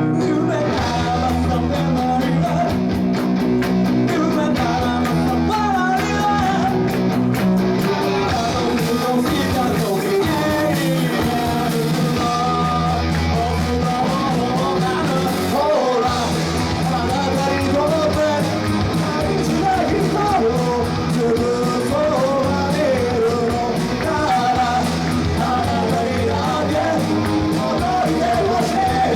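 A rock band playing live, with electric guitar, bass and drums under a singing voice.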